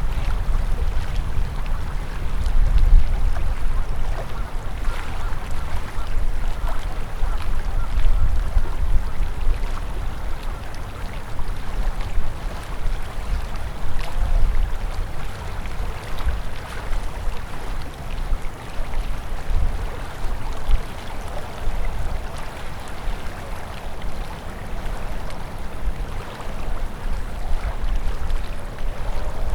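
Winter river flowing steadily, its water rushing and splashing, with a strong, uneven low rumble underneath.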